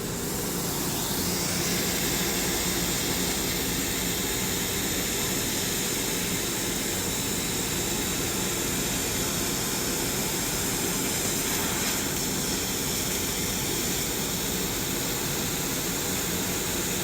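Large laser cutting machine at work, a loud, steady rush of air and fan noise that swells a little in the first couple of seconds.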